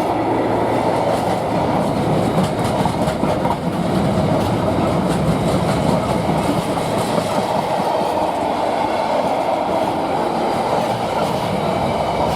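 Train rolling past at speed, a steady rumble of wheels on rail with clickety-clack over the joints.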